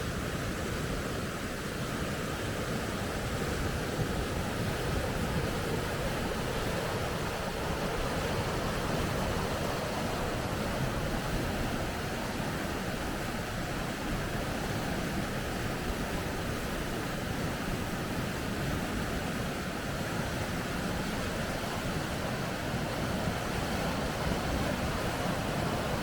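River rapids: a steady rush of fast-flowing water that holds at the same level throughout.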